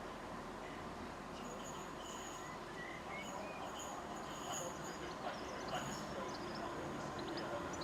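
Quiet outdoor ambience: small birds chirping with short high calls and a repeated thin high note, over a steady low background noise.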